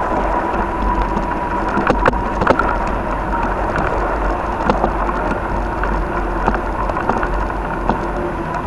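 Wind buffeting the microphone during a winter bike ride, a steady low rumble with scattered clicks and rattles, a couple of sharper ones about two seconds in.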